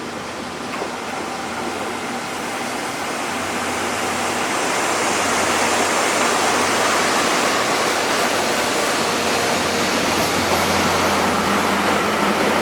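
Running noise of a locomotive-hauled passenger train heard from inside the coach: a steady rushing roar of wheels and air that swells over the first few seconds and then holds.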